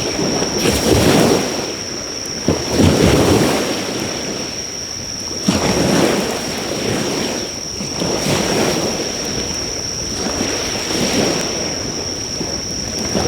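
Waves breaking on the shore in repeated surges every few seconds, under a steady high-pitched insect trill. A few faint crackles come from the driftwood fire.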